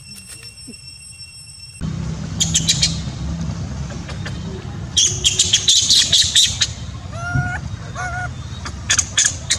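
Birds chirping and squawking over a steady low rumble, starting suddenly about two seconds in. Quick runs of high chirps come in clusters, with a longer burst in the middle, and a few short falling calls come near the end.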